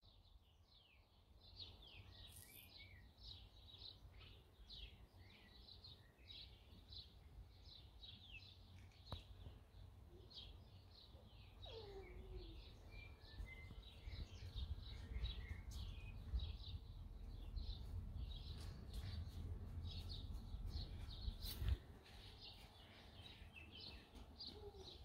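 Small birds chirping, a dense run of short high chirps throughout, faint, over a low rumble on the microphone that grows louder in the middle, with a sharp click near the end.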